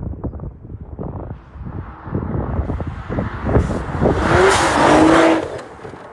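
Car being driven hard on an ice track, its engine revving, with rough knocking and a loud rushing noise that swells to its loudest about four to five seconds in.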